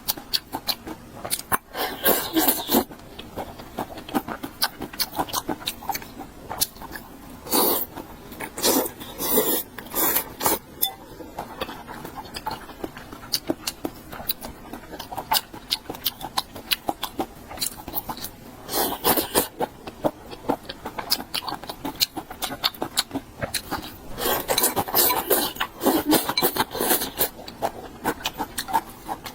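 Close-miked mouth sounds of a person eating: a dense run of wet clicks and smacks from chewing, with several louder, noisier bursts spread through.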